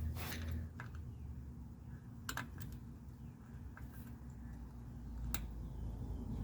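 A few scattered light clicks and taps of hand tools working on the air filter cover of a motorized bicycle engine, over a low steady rumble.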